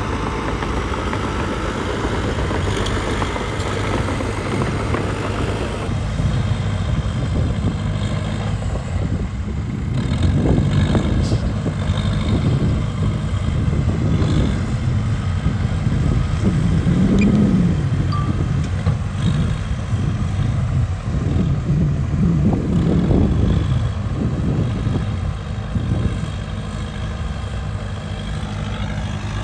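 Caterpillar D3K2 XL crawler bulldozer's diesel engine running. It grows louder about ten seconds in, with several swells, and eases back near the end.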